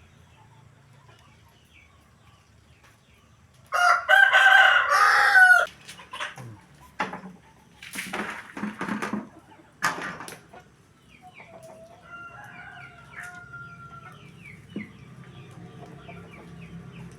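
Rooster crowing: one loud crow about four seconds in, lasting about two seconds, then a fainter drawn-out call a few seconds later, with other chickens calling around it.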